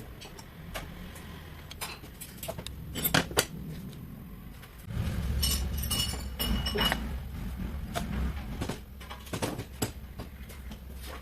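Metal clinks and knocks of tools and scooter engine parts being handled, with two sharp knocks about three seconds in. About halfway through, a low rumble starts, and a cluster of ringing metallic clatter follows over it.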